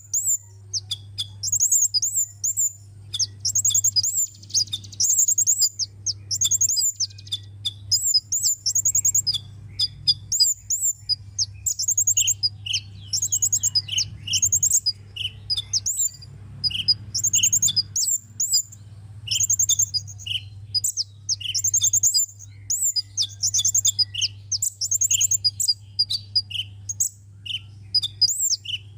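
Sunbird song: quick series of high, thin chirping phrases, repeated with short gaps. From about twelve seconds in, shorter, lower single notes alternate with them. A low steady hum runs underneath.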